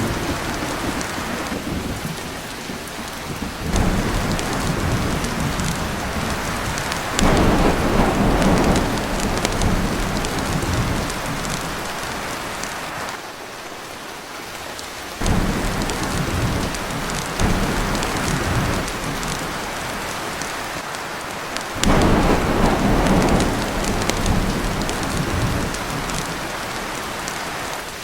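Heavy rain pouring on a tin roof, with rolling thunder swelling up several times.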